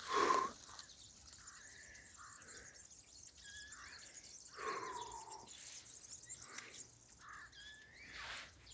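Faint birds calling, scattered short chirps and calls from several birds. There is a louder brief sound right at the start, and a falling call a little past the middle.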